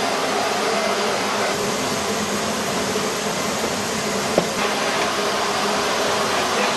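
Steady drone of aircraft engines with a faint hum in it, and a single sharp click about four and a half seconds in.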